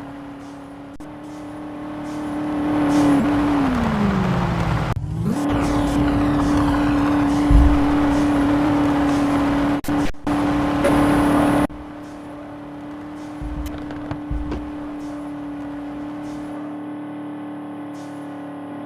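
Vehicle engine running, rising in level a few seconds in, with a steady hum throughout and several abrupt cuts.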